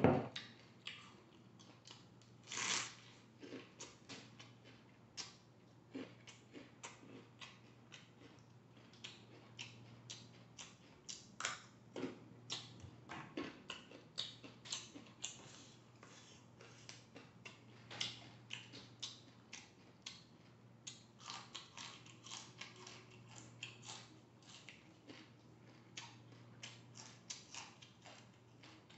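Crunching and chewing of raw vegetables: a quick, irregular run of crisp crunches with short pauses between bites, and a louder knock at the very start.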